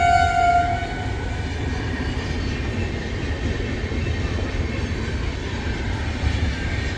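A train horn's held note fades out within the first second, then the train runs on with a steady rumble and rail noise.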